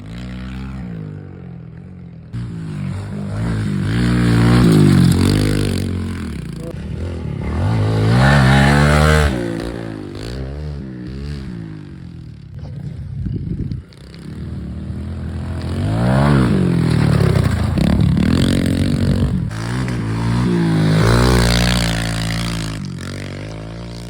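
Dirt bike engines revving up and down, the pitch rising and falling again and again, with a sudden break about halfway through.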